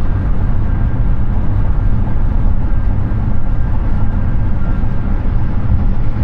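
Road noise of a Hyundai Ioniq 6 electric car driving on a highway: a steady, low rumble of tyres and wind, with no engine note.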